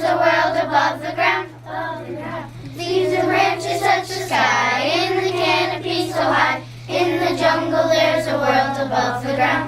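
Children singing a song together, with one long, wavering held note near the middle.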